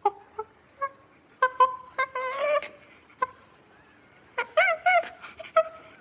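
A farm animal calling: a string of short, pitched calls with pauses between them, a cluster about a second and a half in and another about four and a half seconds in, some of them arching up and down in pitch.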